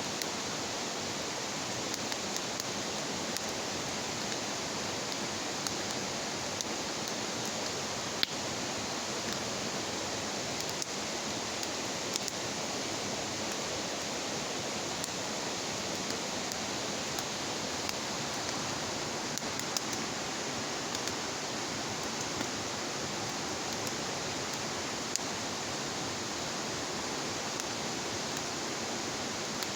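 Wood bonfire burning: a steady hiss with scattered crackles and pops, the sharpest about eight seconds in.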